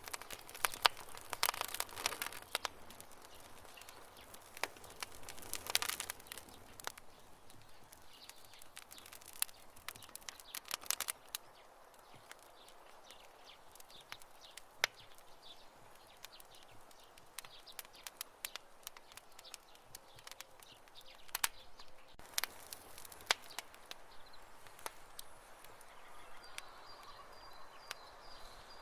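Wood campfire crackling: irregular sharp pops and snaps over a soft hiss, thickening into dense bursts of crackle several times. A faint high steady tone joins near the end.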